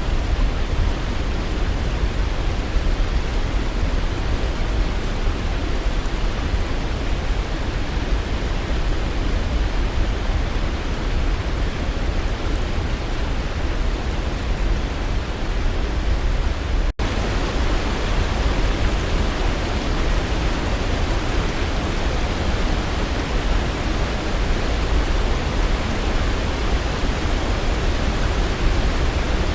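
Waterfall: a steady, even rush of falling water, heaviest in the low end. Partway through it drops out for an instant and returns slightly brighter.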